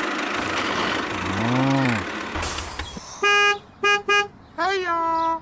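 Vehicle horn honking: one short beep, two quick beeps, then a longer beep that lifts slightly in pitch at its start. Before the honks there is a steady noisy rumble and a brief tone that rises and falls in pitch.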